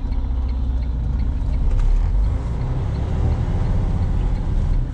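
Semi-truck's diesel engine running, heard from inside the cab as a steady low rumble that swells a little about two seconds in.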